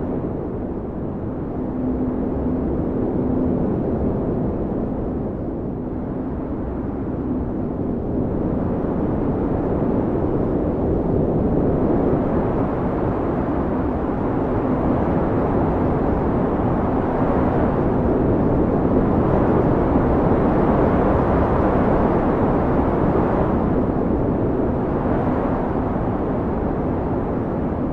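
Blizzard wind howling in gusts: a steady low rushing that swells and eases, loudest about two-thirds of the way through, with a faint held whistling tone under it.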